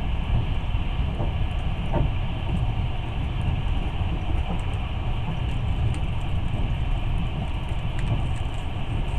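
Long-distance passenger train running, heard from inside the carriage as a steady low rumble of wheels on rails, with a few faint clicks.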